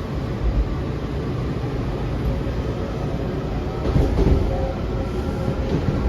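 Washington Metro railcar running between stations, heard from inside the car: a steady low rumble of wheels on track with occasional thumps.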